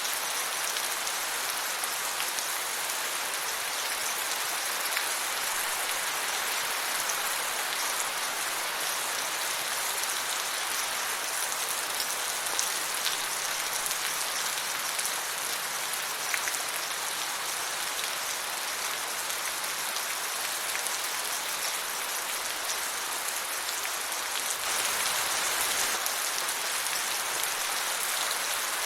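Steady rain falling, a dense even patter of drops on a surface, growing slightly heavier near the end.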